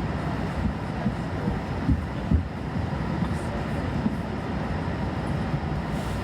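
Steady low rumble of a parked airliner's cabin air and machinery, heard from inside the Airbus A220-300's cabin, with two dull thumps a little after two seconds in.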